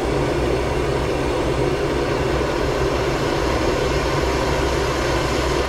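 Handheld gas torch burning with a steady rushing flame, heating a wire connector before solder is fed in.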